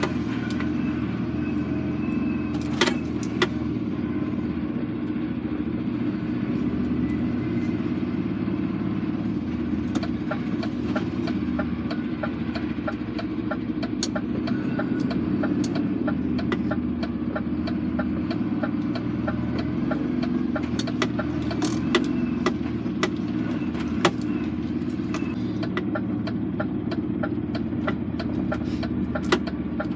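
Lorry engine running steadily, a continuous low drone, with scattered light clicks and rattles over it.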